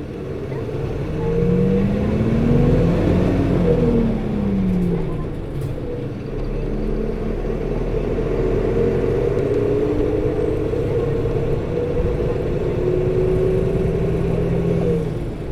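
Nissan Diesel RA274 city bus's diesel engine heard from inside the cabin as the bus drives. Its pitch rises over the first few seconds and drops back around the fourth second, then it runs fairly steadily. The engine's coupling fan runs constantly and is loud for the engine speed, a quirk of this particular bus.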